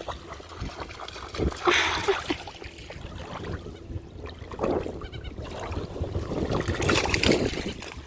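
Water splashing and trickling in three bursts, over a steady low rumble.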